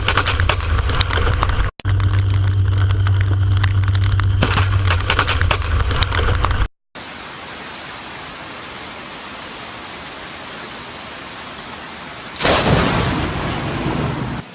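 Steady rain, then a sudden close thunderclap from a nearby lightning strike about twelve seconds in, fading over about two seconds. Before that comes a different stretch of steady noise over a low, even hum.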